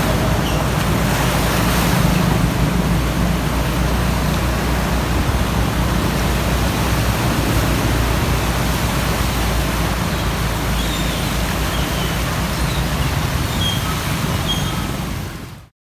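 A steady rushing of water, loud and even, cutting off suddenly near the end.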